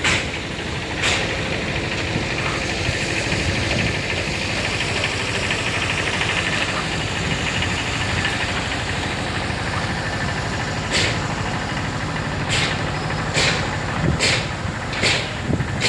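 Small truck's engine idling steadily. In the last few seconds, six short, sharp clicks or knocks come about a second apart.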